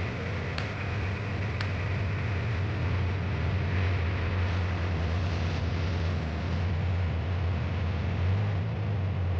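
Steady low rumble of a running vehicle engine, with two short ticks about a second apart near the start.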